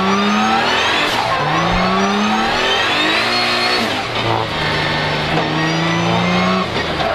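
Nissan 200SX's swapped-in twin-turbo VR38DETT V6 (the GT-R R35 engine) revving hard. Its pitch holds high, drops about a second in, climbs steadily for a few seconds, then holds high again and dips near the end as the throttle is worked.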